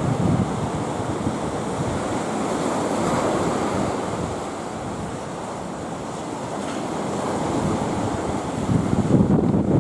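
Sea surf washing and breaking, rough with the swell left by a passing typhoon, with wind buffeting the microphone. The wash swells about three seconds in, eases off, then grows louder and gustier again near the end.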